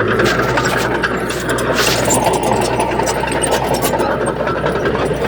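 Heavy diesel earthmoving machinery running steadily, with many short sharp clicks and clanks throughout and a brief louder burst about two seconds in.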